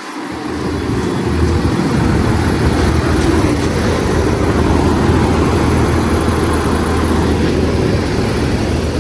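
School bus diesel engine coming up to speed over the first couple of seconds, then running steadily with a loud, low drone.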